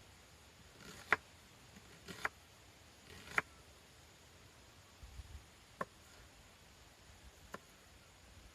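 Handling of cooking utensils and containers during breakfast preparation: about six sharp, separate clicks and knocks, the loudest three in the first few seconds, fainter ones later.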